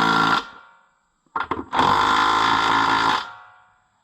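A handheld power tool running lug nuts onto the tractor's rear wheel studs. Its motor whines steadily in pulls: it cuts off and winds down just after the start, gives a few short blips, then makes a longer run of about a second and a half that winds down again.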